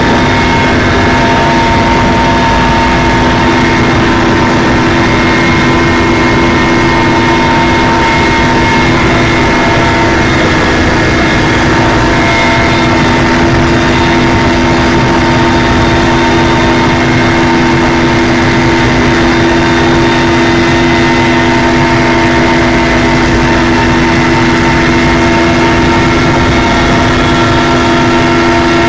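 Helicopter in flight: a loud, steady running noise of engine and rotor, with several steady whining tones over a rushing bed.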